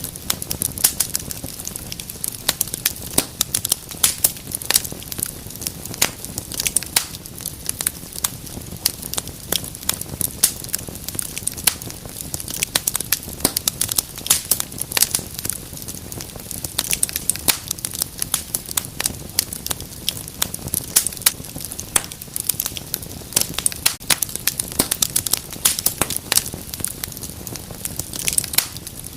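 Wood fire burning in a fireplace: dense, irregular crackles and pops over a low steady rush of flame.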